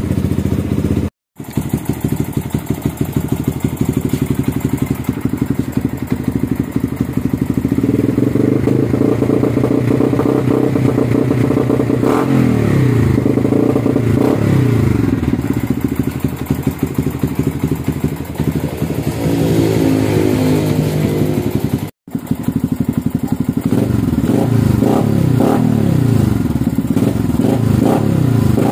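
Yamaha Vixion single-cylinder four-stroke engine running through an aftermarket Norifumi Roket 4 exhaust. It runs steadily, then is revved: engine speed climbs about eight seconds in and falls away around twelve and again around twenty. A run of quick throttle blips follows near the end, and the sound cuts out briefly twice.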